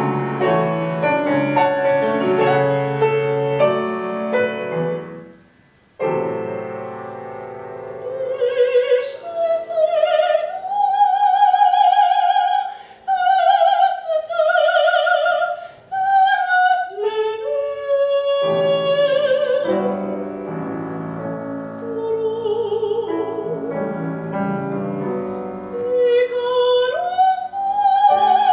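Classical art song for soprano and piano. The piano plays alone and dies away almost to silence about six seconds in, then resumes, and a couple of seconds later the soprano enters, singing sustained notes with wide vibrato over the piano.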